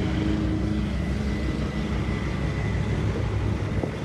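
Ford 7.3 L Power Stroke turbo-diesel V8 running steadily, with no change in engine speed.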